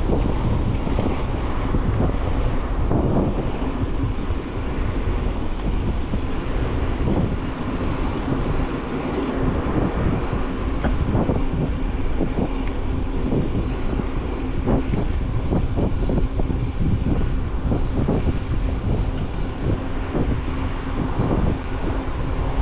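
Wind buffeting the microphone of a camera mounted on a moving bicycle: a steady low rumble broken by many short knocks and rattles. A faint steady hum joins in during the last few seconds.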